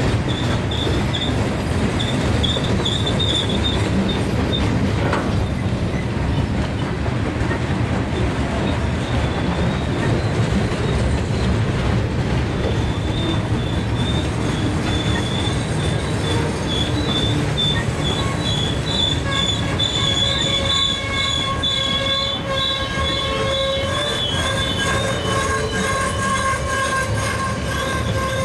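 Freight train of Herzog ballast hopper cars rolling past, with a steady rumble of wheels on rail. Thin, high wheel squeal comes and goes early on, then returns about halfway through and grows into several steady squealing tones in the last third.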